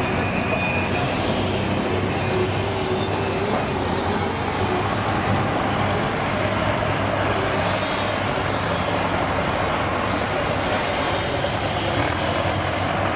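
Heavy vehicle engine running steadily, a constant low drone with no change in speed.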